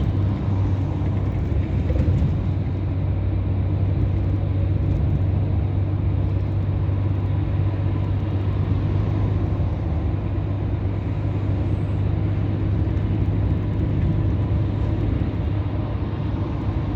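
Scania R500 truck's V8 diesel engine droning steadily at cruising speed, with tyre and road noise, heard from inside the cab.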